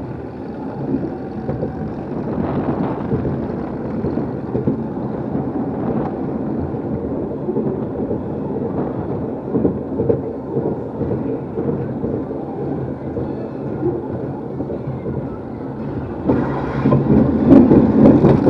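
Caterpillar ride running: a steady rumbling with irregular rattles and knocks from the cars, growing louder with sharper clatter about 16 seconds in.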